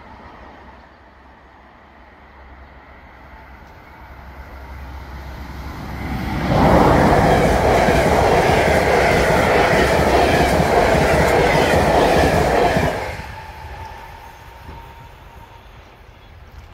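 Snälltåget passenger train passing at speed. The rush of wheels and coaches on the rails builds over a few seconds, stays loud for about six seconds as the carriages go by, then drops away quickly.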